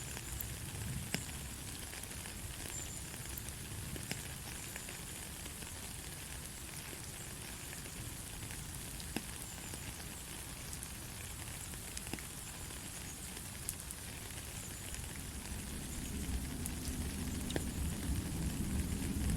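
Steady light rain, an even hiss of falling drops with occasional sharper drop ticks. A low rumble builds up in the last few seconds.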